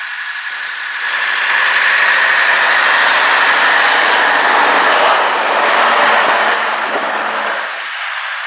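Vintage Scania truck's diesel engine driving past: it grows louder about a second in, runs steadily, and fades away near the end.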